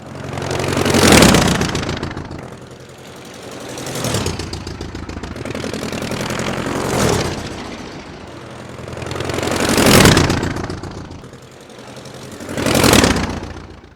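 Motor vehicle engines, running and swelling in loudness five times, about every three seconds, each swell rising and fading gradually, like vehicles going past one after another.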